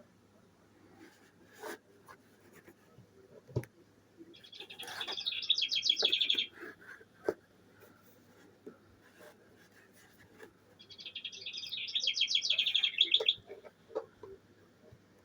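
Bird clock's speaker playing a recorded bird song, a rapid high trill that grows louder over about two seconds. The trill comes twice, with a few faint clicks between.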